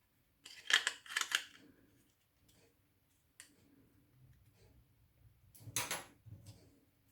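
Small clicks and rattles of a plastic key fob case being handled, in two short clusters: one about half a second in and another near six seconds.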